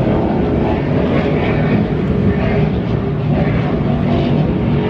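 Offshore racing powerboat engines running flat out, a loud steady drone.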